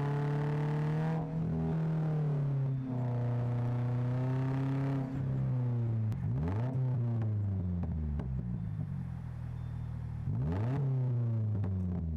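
Subaru Forester 2.5i's naturally aspirated flat-four through an aftermarket exhaust, driving. The engine note climbs under acceleration with brief drops at gear changes about one and three seconds in, then falls away. There are two quick revs, one near the middle and one near the end.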